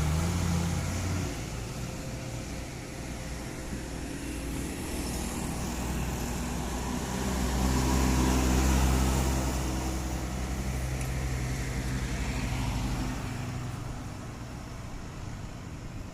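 Diesel engine of a heavily loaded sugarcane truck with trailer, labouring up a steep grade. It grows louder as it nears, peaks about eight to nine seconds in, then fades as it moves off.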